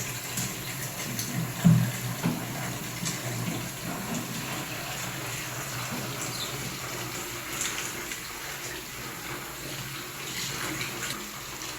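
Water running steadily from a tap into a basin for hand-washing clothes, with a single loud thump just under two seconds in.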